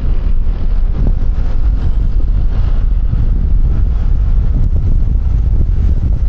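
Wind buffeting a helmet-mounted external microphone while riding a QJMotor Fortress 160 scooter, a steady low rumble of wind, engine and road noise.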